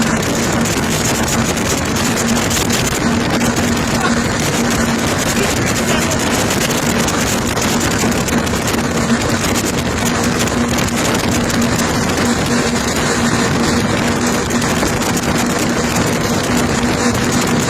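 Twin 300 hp speedboat engines running flat out at a steady pitch, a constant drone under a dense rushing noise of wind and water.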